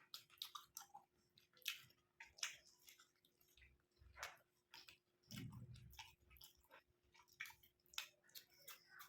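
Close-miked chewing of curry and rice: a string of short wet mouth clicks and smacks, with a lower, muffled sound about five and a half seconds in. A faint steady hum runs underneath.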